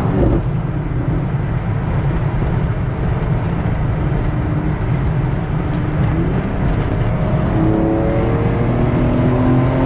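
Car driving at speed, heard from inside: steady engine rumble and road noise. An engine note climbs in pitch over the last few seconds.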